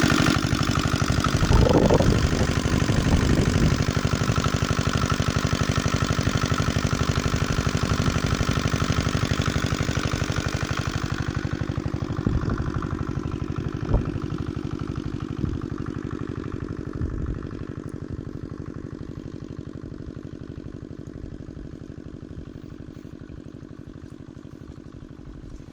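A small 4 hp diesel engine running with a fast, even knocking beat, gradually getting quieter over the stretch.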